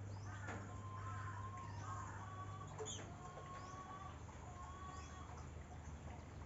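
Birds calling with chickens clucking: many short chirps and several drawn-out single notes, over a steady low hum.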